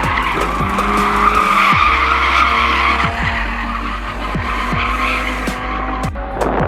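A drifting car's tyres squealing steadily over its running engine, with background music carrying a steady kick-drum beat about twice a second.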